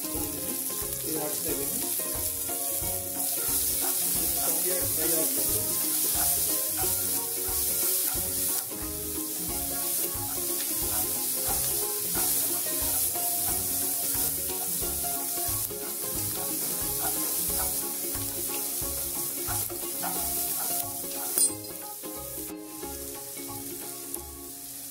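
Onions and ginger-garlic paste sizzling in hot mustard oil in a kadai, stirred and scraped with a wooden spatula, with one sharp knock near the end.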